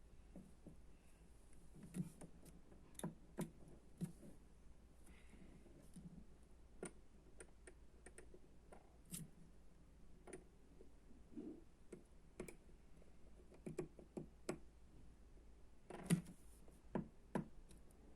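Faint, irregular small clicks and taps, about fifteen scattered through, over a steady low hum.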